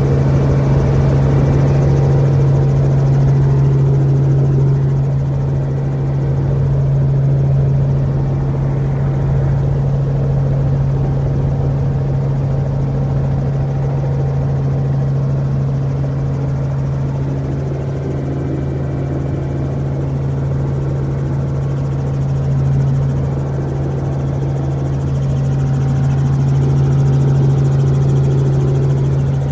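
Helicopter running: a loud, steady low drone with one strong hum that holds a constant pitch.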